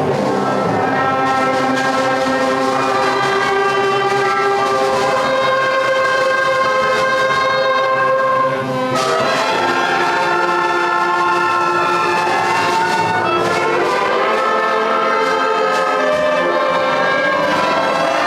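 A school concert band with strings playing together: sustained brass, woodwind and string notes in a slow-moving piece, with a brief break about eight seconds in before the phrase resumes.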